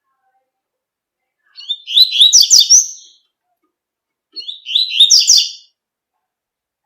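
Double-collared seedeater (coleirinho) singing its tui-tui song: two short phrases of quick, high repeated notes, the first about one and a half seconds in and the second a little after four seconds.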